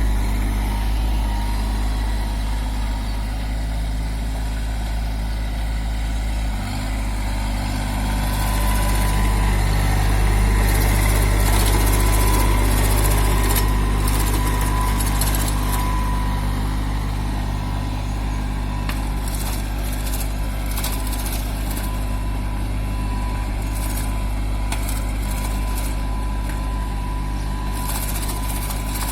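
Kubota 2441 tractor's diesel engine running steadily, its note stepping up slightly about seven seconds in.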